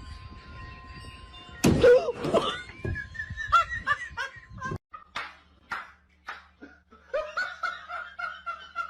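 Laughter in quick repeated bursts, starting with a loud outburst a couple of seconds in.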